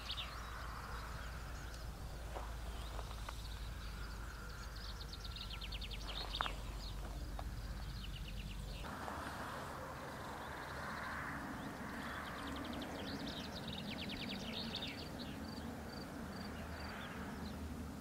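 Small birds singing in fast, repeated trills, with a steady low hum in the background that stops abruptly about nine seconds in. There is a single sharp click about six seconds in.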